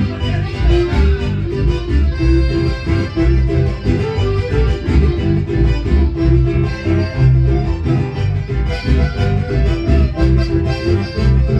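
A band playing dance music, with a steady pulsing bass beat under held melody notes.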